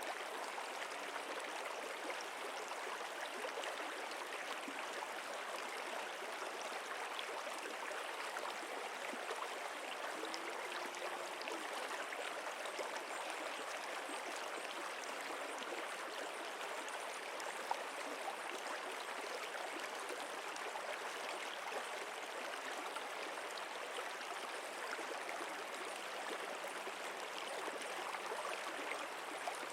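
Flowing stream water, a steady, even rush and babble.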